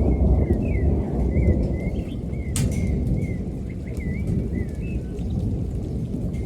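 Continuous rolling thunder rumbling low, with a bird chirping short, twisting notes over it for the first five seconds or so, and a single sharp click about two and a half seconds in.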